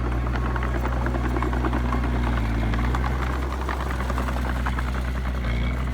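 Heavy diesel engine of construction machinery running steadily, with a dense clatter of knocks over it.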